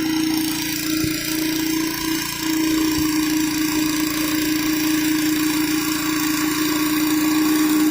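Gas-engine pressure washer running with a steady hum while high-pressure water sprays out in a constant hiss.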